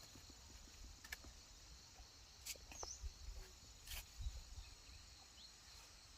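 Near silence: faint outdoor ambience with a steady high insect hum and a few light clicks.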